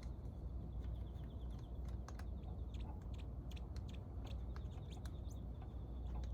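Scattered light clicks and taps of hand tools and metal engine parts being handled during disassembly of a motorcycle engine, over a steady low rumble.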